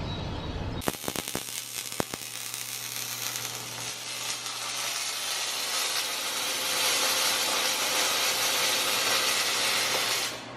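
MIG welding arc: a steady hissing crackle that starts about a second in with a few sharp pops as the arc strikes, and cuts off abruptly just before the end as the bead is finished.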